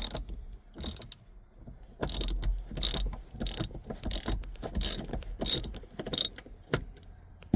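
Hand ratchet with an extension and T45 Torx bit loosening the armrest bolt: a run of about seven evenly spaced pawl clicks, roughly one every two thirds of a second, from about two seconds in, after a single click at the start.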